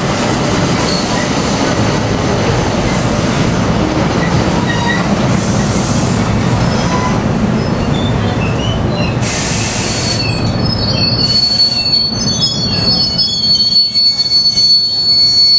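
NJ Transit Multilevel double-deck coaches rolling past on the rails: a steady rumble with scattered short wheel squeaks. About ten seconds in, a steady high-pitched squeal sets in and the rumble dies down as the train slows.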